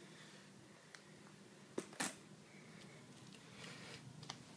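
Mostly quiet room with a few faint clicks and taps from handling the drone's parts and packaging, the two sharpest a little before and at two seconds in.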